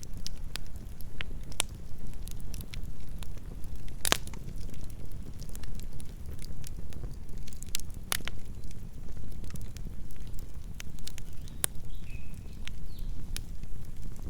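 Wood campfire burning: a steady low rumble of the flames with scattered sharp crackles and pops, the loudest about four and eight seconds in.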